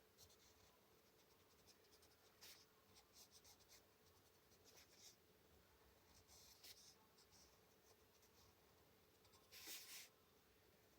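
Faint scratching of a colored pencil stroking across paper, in short separate strokes, the loudest about ten seconds in.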